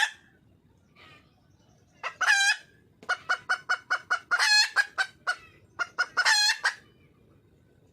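Red junglefowl hen calling for a mate: a drawn-out call about two seconds in, then a quick run of short clucks, about five a second, broken by a longer note, and another drawn-out call near the end.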